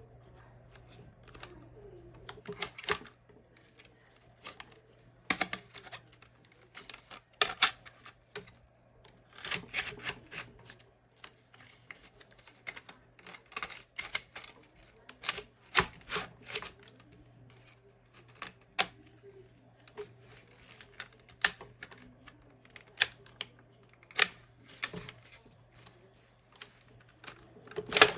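Irregular sharp clicks and knocks, some in quick clusters, from hand work on a 2005-2009 Ford Mustang's manual shifter.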